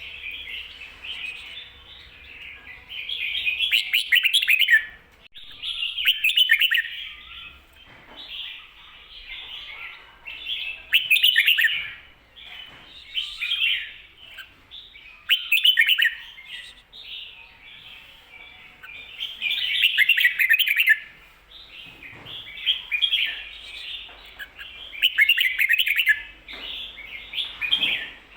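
Red-whiskered bulbul singing short, bright warbled phrases, one every two to three seconds, with softer chirps between them. This is the doubled 'ko-ta-ra' song pattern used to teach other caged bulbuls.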